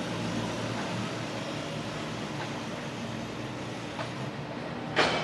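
Steady rumble of a Kintetsu train running away in the distance over the hum of the station platform, with a sharp click about five seconds in.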